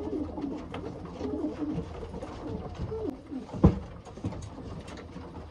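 Racing pigeons cooing, soft low wavering calls that go on throughout, with one sharp knock about two-thirds of the way through.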